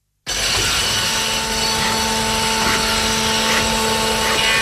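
Experimental noise music: after a moment of dead silence, a dense, harsh wall of noise with a few held drone tones cuts in abruptly and holds steady and loud.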